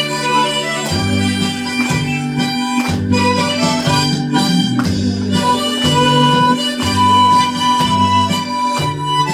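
Harmonica playing a slow melody with held notes over an accompaniment whose bass line changes note about once a second.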